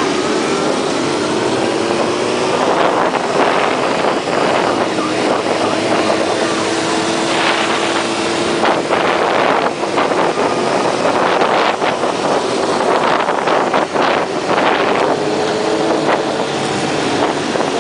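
Motorcycle engines running, their pitch slowly rising and falling, with wind rushing over the microphone.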